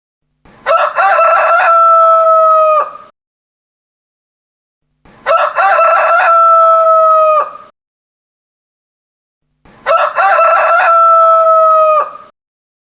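Rooster crowing three times, about four and a half seconds apart. Each crow lasts about two and a half seconds and ends in a long held note. The three crows are identical, one recording looped with dead silence between.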